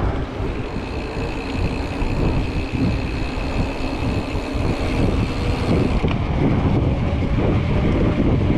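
Wind rushing over the microphone while riding a mountain bike. A thin steady high whine sounds through the first six seconds and then stops.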